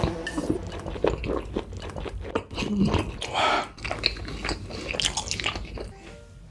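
Close-miked mukbang chewing of a huge mouthful of saucy noodle wrap with runny egg yolk: wet, squelchy mouth sounds with irregular clicks and smacks as the bite is worked.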